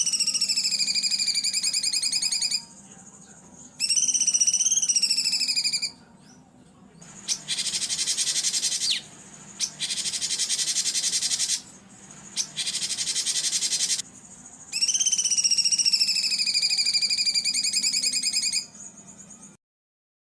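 Recorded songbird calls in harsh 'rough shot' phrases: long buzzy trills that slide in pitch, two at the start and one near the end, with three rasping, noisy phrases in the middle. The sound cuts off suddenly near the end.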